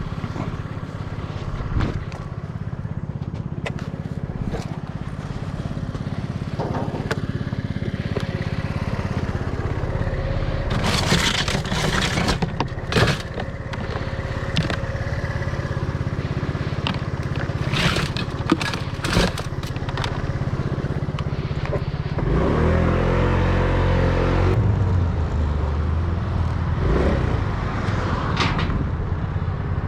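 Motor vehicle engine running steadily, with scattered sharp clicks and knocks over it. The engine note swells for a few seconds about two-thirds of the way through.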